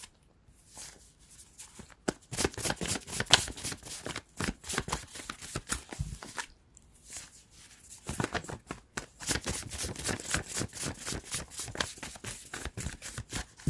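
Tarot cards being shuffled by hand: two long runs of quick papery flicks, with a lull of about two seconds between them.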